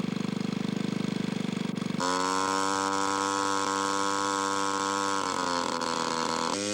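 Two-stroke gas engine of a large radio-control model airplane, a Zenoah G-23, idling with an even pulse. About two seconds in it jumps abruptly to high revs, a steady high-pitched buzz that dips briefly near the end.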